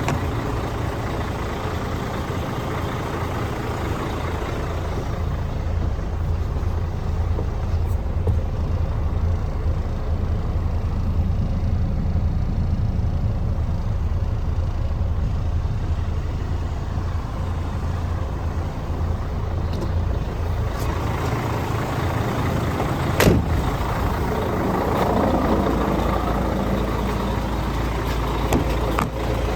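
MAN TGA 18.410 truck's diesel engine running steadily at idle, with a single sharp click about three-quarters of the way through.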